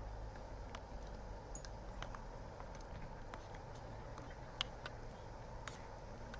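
Wood campfire crackling: scattered sharp pops and snaps at irregular intervals over a low steady rumble, with one louder pop about halfway through.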